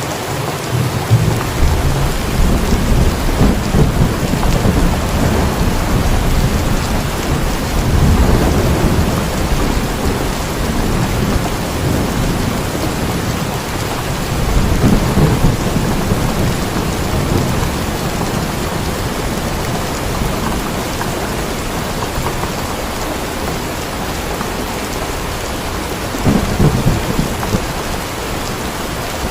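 Steady heavy rain with rolls of low thunder rumbling in and fading several times, the strongest near the start and again about 8, 15 and 26 seconds in.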